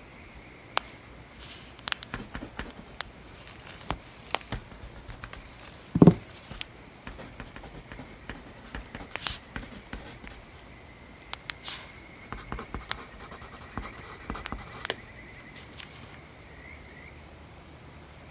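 Campfire crackling: scattered sharp pops and snaps at irregular intervals, with one heavier knock about six seconds in.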